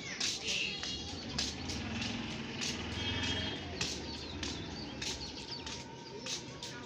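Birds chirping in short, repeated calls over steady outdoor background noise.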